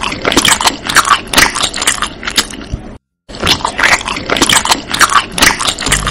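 Close-miked chewing of soft Korean fish cake (odeng) in broth: a dense run of wet, crackly mouth clicks and squelches. It cuts out completely for a moment about halfway, then carries on.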